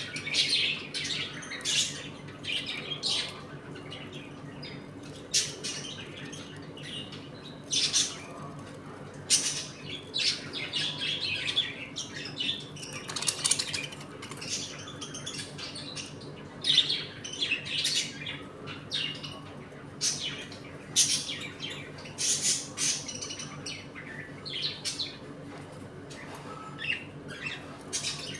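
A flock of budgerigars chirping and chattering, many short high calls overlapping at an irregular pace, over a steady low hum.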